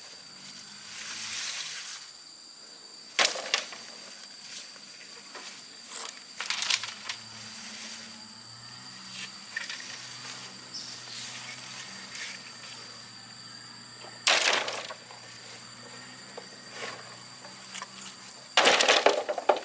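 Insects, crickets by their sound, droning steadily in high tones. Several sharp knocks and scrapes stand out over it, the loudest about 14 seconds in and near the end.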